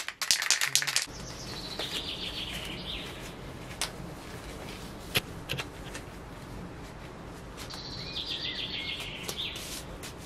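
Steady outdoor background noise with a bird singing twice, each time a falling run of high notes lasting about two seconds. In between come a few sharp clicks and rustles as black disposable gloves are pulled on.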